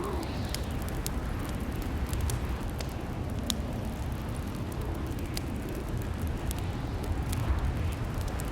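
Fireplace fire crackling: a steady low rumble of burning with irregular sharp pops and snaps scattered throughout.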